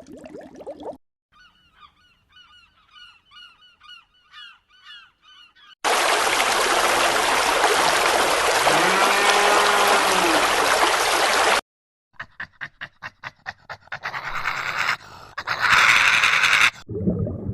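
Animal calls in several short cuts: first a bird calling over and over in quick hooked notes, then a loud, noisy stretch with a low drawn-out call in the middle, then clicking and more loud calls.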